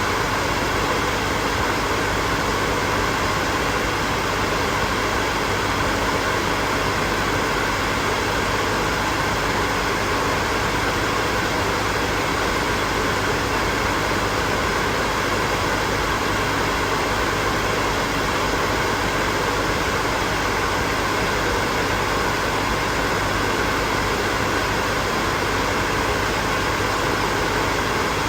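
Hair dryer running steadily: an even rush of blown air with a faint motor hum underneath, unchanging throughout.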